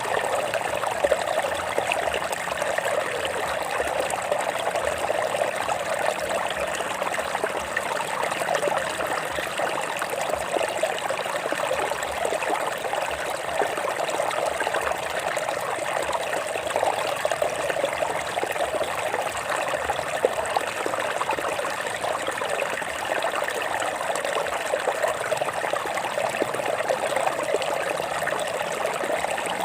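Water running over rocks, a steady trickling and splashing that never lets up.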